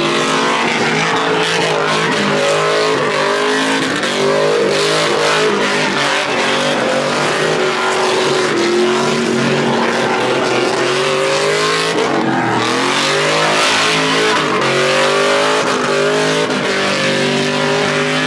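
Truck engines revving loudly, their pitch climbing and falling again and again, with a sharp drop and climb about twelve seconds in.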